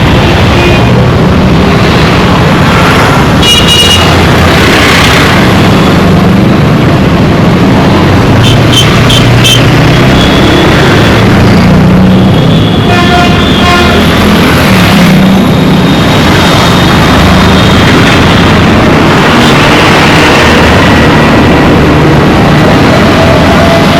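Dense road traffic: a steady mass of engines and tyre noise, with horns honking now and then. There is a short toot about four seconds in, a quick string of short beeps about nine seconds in, and a longer honk about thirteen seconds in.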